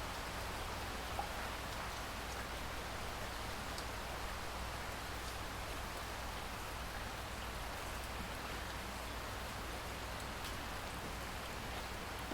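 Steady rainfall: an even hiss of rain with a few single drops ticking now and then.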